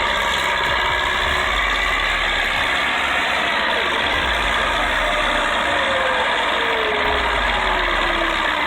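Pulling tractor's engine running hard under heavy load, loud and steady, with a tone that slides down in pitch over the last few seconds.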